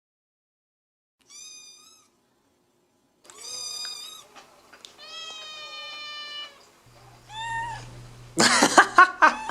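Domestic cat meowing four times, the third meow long and slowly falling in pitch. A louder, rough outburst follows near the end.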